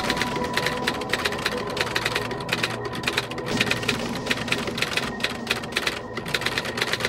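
Typewriter keys clacking in a fast, uneven stream of strikes, several a second, over a faint steady tone.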